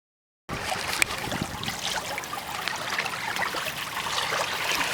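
Water splashing and trickling against the hull of a moving sailing kayak, with small sharp splashes through it; it starts suddenly about half a second in.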